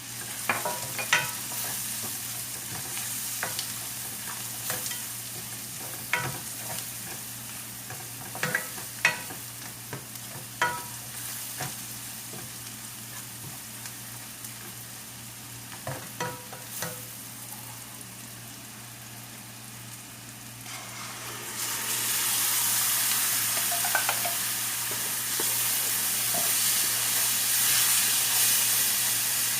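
A metal utensil stirring food in a cooking pot, knocking against the pot about a dozen times with short metallic rings. About 21 seconds in, a loud sizzle starts as something frying in the hot pot begins to spit, and it keeps going.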